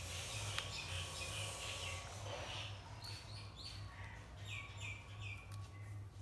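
Small birds chirping in the background in short, high notes, with a run of three falling chirps near the end. A steady, pulsing low hum runs underneath, with a few faint clicks.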